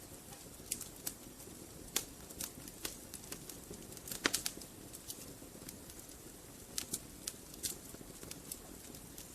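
Wood fire burning in a fireplace: a low steady hiss with irregular crackles and pops from the logs, a quick cluster of sharper pops about four seconds in.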